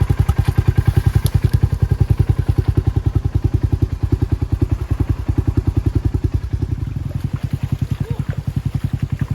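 Ranger utility vehicle's engine idling, a steady low chugging pulse of about eight beats a second that eases slightly near the end.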